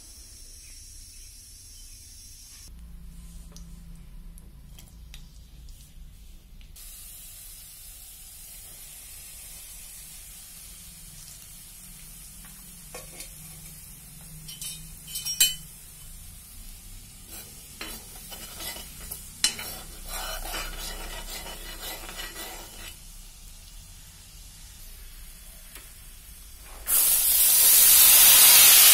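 Spices and garlic frying quietly in oil in a kadhai, with a few clinks of a spoon against the pan. About 27 s in, a loud, steady sizzle starts as a heap of ridge gourd flower buds goes into the hot oil.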